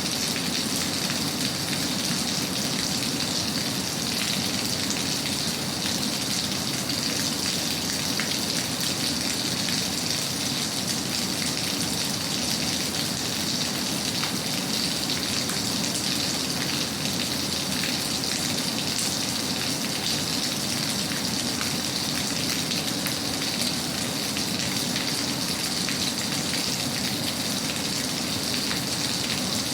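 Steady rain falling, an even patter of many drops that never changes.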